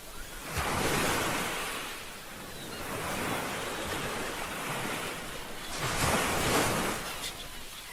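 Ocean waves breaking and washing up the shore. One wave surges about a second in and another about six seconds in, with a steady rushing wash between them.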